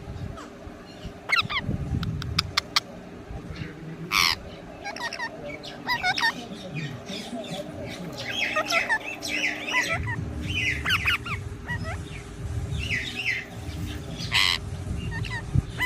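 Parrot squawking and calling in a run of short chirps and whistled glides, with two loud harsh squawks, one about four seconds in and one near the end.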